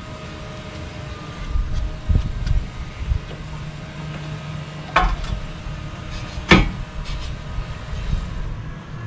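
Two sharp metallic clinks of brake parts and tools being handled, about five and six and a half seconds in, the first with a brief ring, over a steady low rumble of shop background.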